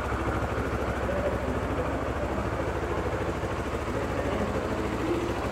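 A 2007 Kawasaki Ninja 650R's parallel-twin engine idling steadily.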